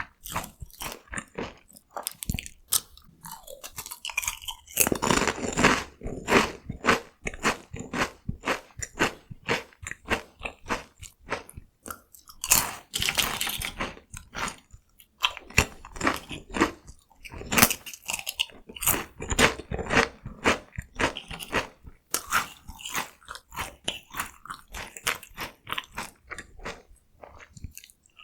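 Close-miked chewing of crunchy corn cone snacks (Kkokkal-cone): rapid, irregular crisp crunches with short pauses between mouthfuls.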